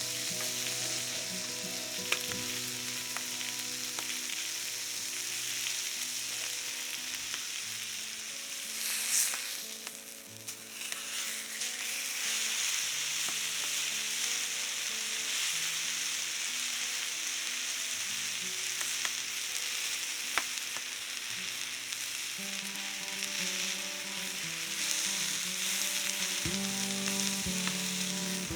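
Food sizzling as it fries in a pan, a steady hiss with a few sharp pops, which eases briefly about a third of the way in. Soft background music with changing notes plays underneath.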